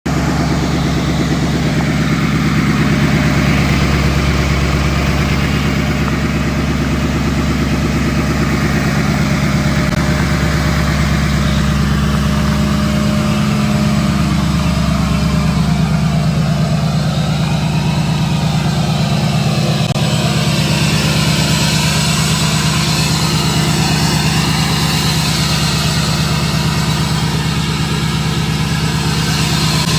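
2016 Chevrolet Duramax 6.6-litre V8 turbo-diesel idling steadily through a 5-inch straight-pipe exhaust, a low, even drone.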